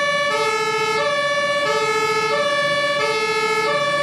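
Electronic two-tone hi-lo siren of a toy fire engine, switching back and forth between a lower and a higher note about every two-thirds of a second, steady and even.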